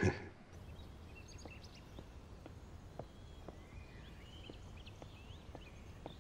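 A brief sharp sound right at the start, then faint background with soft, evenly spaced ticks about twice a second and a few short, high chirps.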